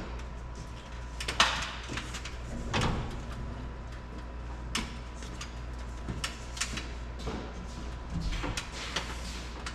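Irregular knocks and clatters of tools and sheet metal being handled, about a dozen over the stretch, the loudest about a second and a half in, over a steady low hum.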